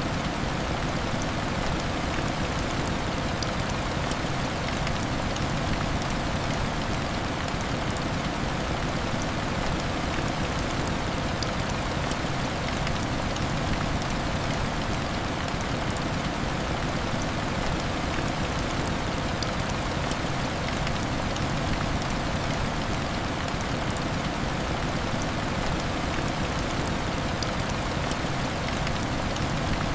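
Heavy rain falling steadily against window glass: a constant, even wash of rain noise with fine scattered ticks, and no swells or breaks.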